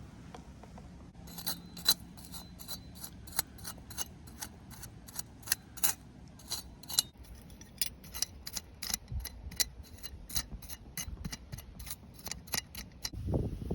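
Scissors snipping repeatedly in quick, sharp cuts, about three a second, starting about a second in.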